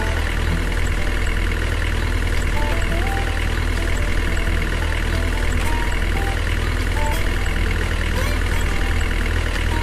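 Engine running steadily at idle-like speed with an even low hum.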